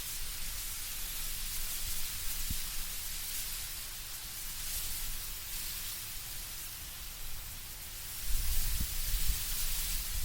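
Wind moving through trees with leaves rustling, a steady soft hiss. Low rumbling gusts come in near the end.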